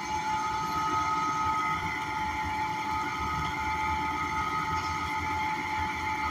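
Inside a 2013 Gillig BRT Plus bus: its Cummins Westport ISL G natural-gas engine and Allison B400R transmission running, a low rumble with a steady high whine over it.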